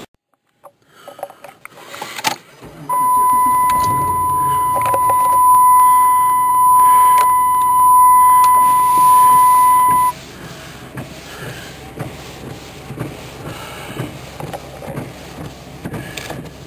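A steady, high electronic beep held for about seven seconds, then cut off, over a low vehicle rumble that carries on with scattered knocks and clicks.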